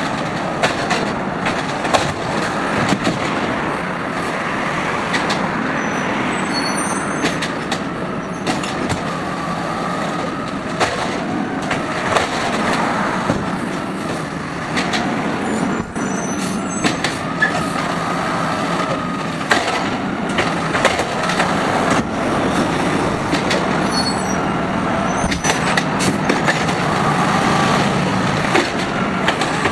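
Garbage truck running steadily, with many short clanks and knocks scattered throughout.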